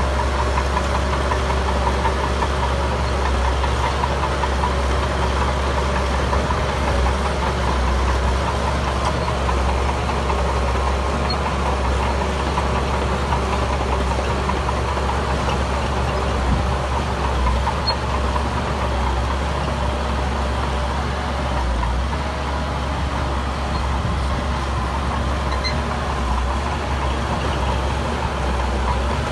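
Diesel engine of heavy earthmoving machinery running steadily at an even speed, a deep continuous drone.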